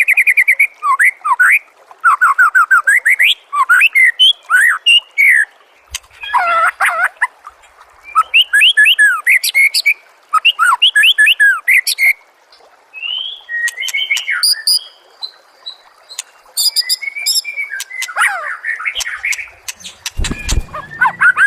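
White-rumped shama (murai batu) singing a varied, loud song of rapid trills, sweeping whistles and chattering phrases, one after another with short gaps.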